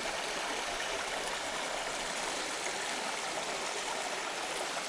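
Flowing creek water, a steady rushing noise.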